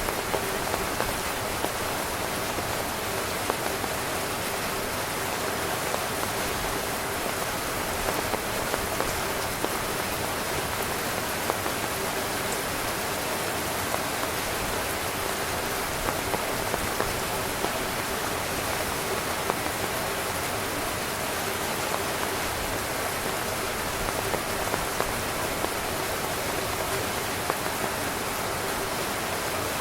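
Steady rain falling on a tent: an even hiss with many scattered, louder individual drops.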